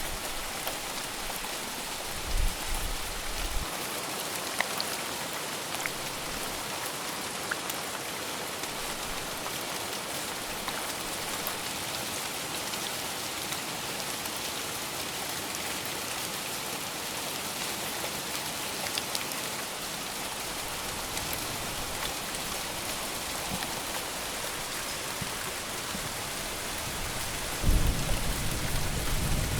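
Steady heavy rain falling and pattering on surfaces, an even hiss with scattered drop ticks. Near the end comes a brief low rumble.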